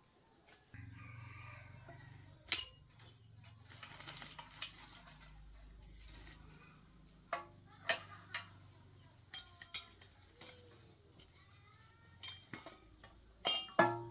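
Metal tools and engine parts clinking and knocking, single sharp clinks spread through, coming thicker near the end, over a low steady hum.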